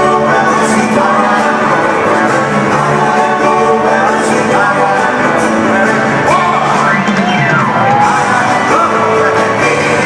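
Live band playing with singing, and shouts and whoops from the audience in a large hall.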